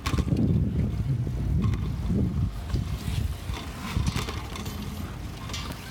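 Wind buffeting a handheld phone's microphone while riding a bicycle: a low, uneven rumble that swells and dips, with a few faint knocks.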